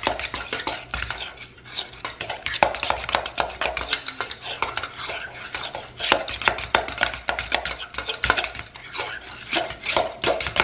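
Metal fork stirring and mashing a thick almond-flour biscuit dough in a stainless steel mixing bowl, with quick, irregular clinks and scrapes of the tines against the bowl.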